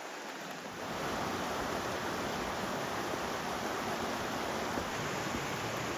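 Steady rushing water noise, coming up slightly louder about a second in and holding even.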